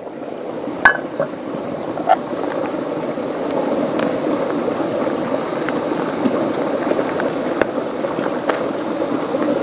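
Steady rush of water with a few light ticks or drips scattered through it.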